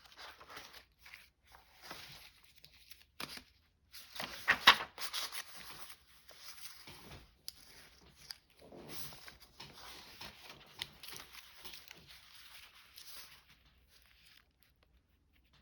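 Paper rustling and crinkling as it is handled, in short irregular bursts, loudest about four to five seconds in.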